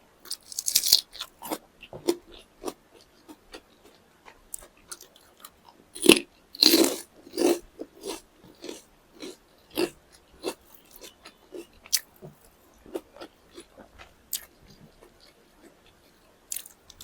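Close-miked eating: a person biting and chewing food, with loud crunchy bites about a second in and again around six to seven seconds in, and many small mouth clicks of chewing between them.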